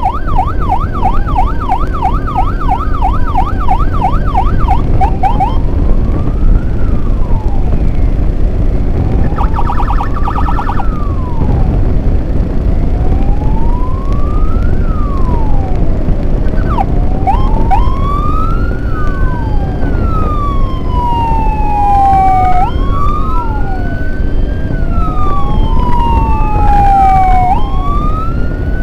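Electronic emergency sirens on a convoy escorting an ambulance: a fast yelp for about the first five seconds, then a slow wail rising and falling every couple of seconds. In the second half two wails overlap, over a heavy rumble of engine and wind noise.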